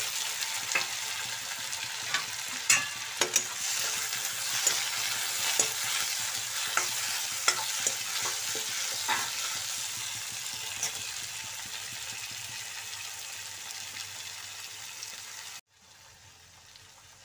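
Tomato wedges and sliced onions sizzling in hot oil in a kadai, with a spatula knocking and scraping against the pan about once a second through the first ten seconds or so. The sizzle slowly fades, then drops off suddenly near the end.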